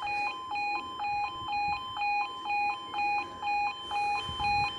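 Level crossing warning alarm, an electronic two-tone yodel switching between a lower and a higher pitch about two to three times a second. It warns that a train is approaching and the crossing is closed to road traffic.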